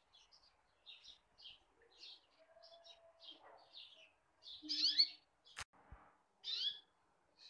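A small bird chirping, a steady run of short high chirps about two a second, with two louder calls sliding quickly in pitch in the second half. A single sharp click about five and a half seconds in.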